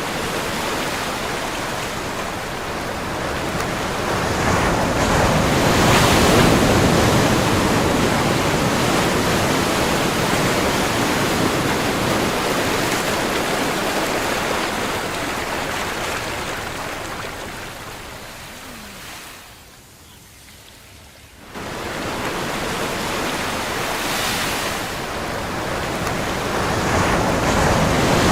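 Ocean surf: waves breaking and washing in as a continuous rush of noise. It swells to a peak about six seconds in, fades almost away a little before twenty seconds, then comes back suddenly and builds again near the end.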